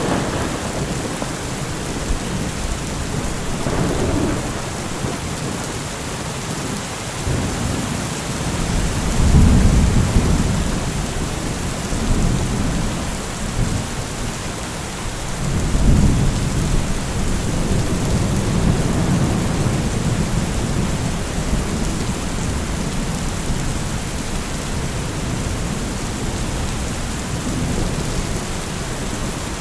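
Steady heavy rain with rolling thunder rumbles swelling and fading several times, the strongest about a third of the way in and again about halfway.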